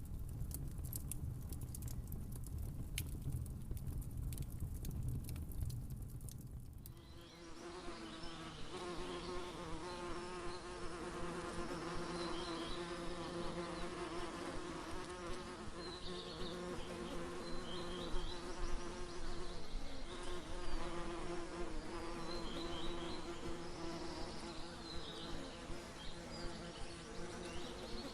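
Dense crackling clicks over a low rumble for the first several seconds. About seven seconds in, the sound switches to insects buzzing steadily in a continuous drone, with short high chirps now and then.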